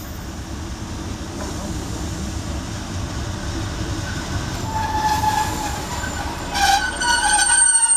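Class 156 Super Sprinter diesel multiple unit rolling into the station and braking: a steady low rumble, joined about halfway by metallic squealing that grows louder, with a high thin squeal near the end as it comes to a stop.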